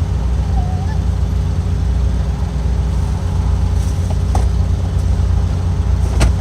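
Semi-truck diesel engine idling steadily, a continuous low rumble, with a few light clicks over it.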